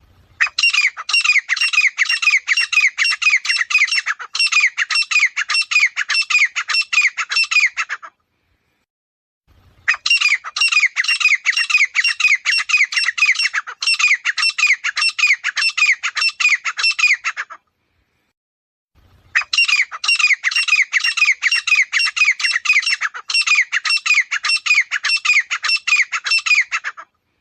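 Grey francolin calling: three long bouts of rapid, loud, harsh repeated notes, each bout lasting about seven and a half seconds, with a short silence between them.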